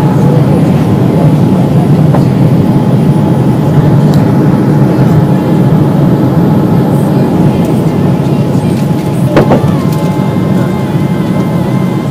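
Steady, loud cabin noise inside a Boeing 787-8 Dreamliner just after takeoff: a deep rumble of jet engines and airflow, with a sharp click about nine seconds in.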